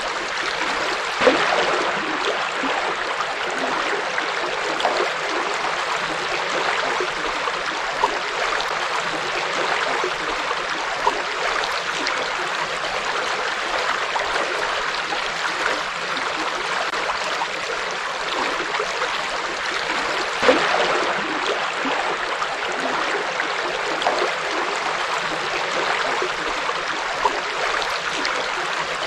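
A forest river flowing steadily over stones, a constant rushing and babbling with small splashes now and then.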